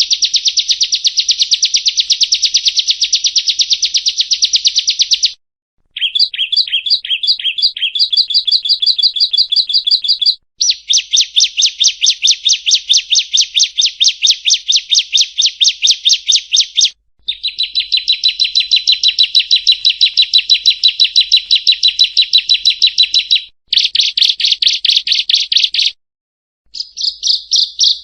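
Bar-winged prinia (ciblek kristal) singing: long, fast trills of quick repeated high chirps, broken by short pauses into about six phrases. One phrase near the start of the second quarter begins with slower, separate notes before speeding up.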